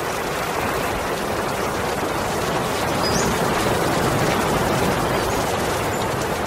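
Stream water running steadily, a continuous even rush.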